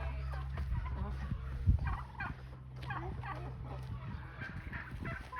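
Farmyard poultry clucking and calling in many short calls over a steady low hum, with one sharp knock about two seconds in.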